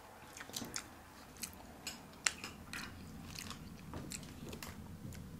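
Close-up eating sounds: people chewing soft strawberry shortcake and ice cream, with wet mouth clicks and smacks. Short clicks come at irregular moments, the sharpest about two seconds in.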